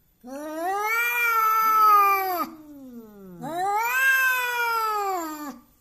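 Angry domestic cat caterwauling: two long, drawn-out threat yowls that rise and then fall in pitch, with a softer call gliding down between them.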